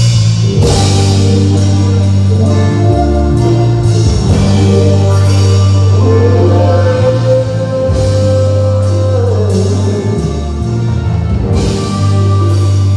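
A song with vocals played loud through a PA system during a sound check: drums, bass and guitar, with a singer holding one long note about halfway through.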